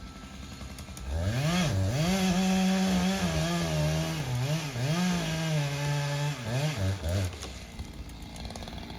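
Two-stroke chainsaw opened up to full throttle about a second in, cutting into dead cherry wood. Its pitch sags and recovers several times as the chain takes load, and it falls back toward idle at around seven seconds.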